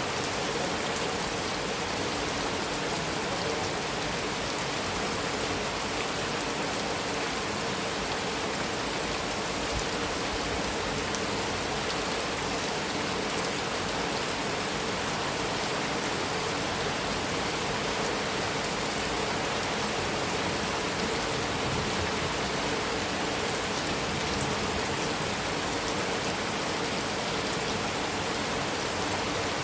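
Heavy rain falling steadily on a metal roof, an even hiss of drops that holds at one level throughout.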